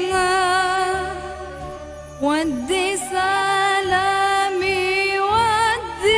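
Arabic song: a high voice holds long, wavering notes without words over a low, steady accompaniment.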